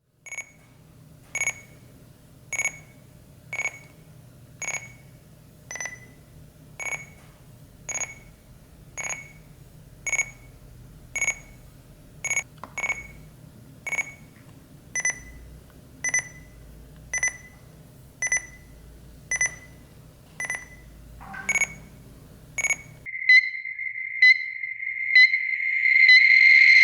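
Avalanche transceiver in search mode giving a short high beep about once a second, one for each pulse it receives. About 23 s in, the beeps give way to a steady high tone with a rising static hiss, the sound of interference from a powered-on cell phone.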